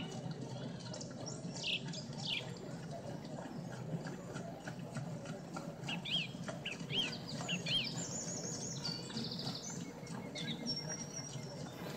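Songbird chirping faintly over a steady low background hiss, with a run of quick repeated chirps and a short rapid trill in the second half.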